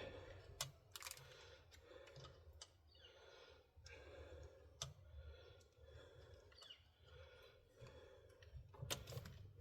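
Faint, scattered clicks and light taps of hand work on small parts and tools, over a low steady hum.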